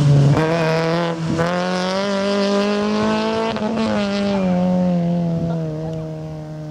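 Fiat Cinquecento Sporting rally car with a 1.2 16-valve four-cylinder engine, revving hard under full throttle as it passes. The engine note climbs for about three seconds, drops with an upshift near four seconds in, then holds steady and fades as the car pulls away.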